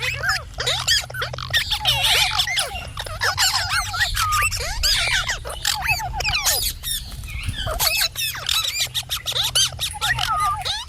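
Several parrots chirping and squawking without a break, many short, rising-and-falling whistled chirps overlapping one another, over a steady low hum.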